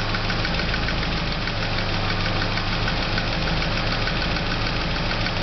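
Ford Anglia van's tuned four-cylinder engine idling steadily, with a faint regular ticking. The mechanics suspect a leak at the side of the block, perhaps a blowing exhaust gasket.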